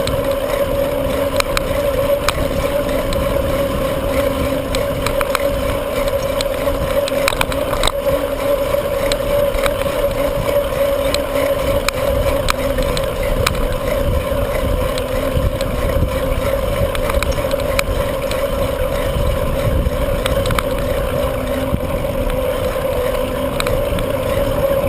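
Wind buffeting the microphone of a bicycle-mounted or rider-worn camera while riding, a steady low rumble with a constant hum underneath and occasional small clicks.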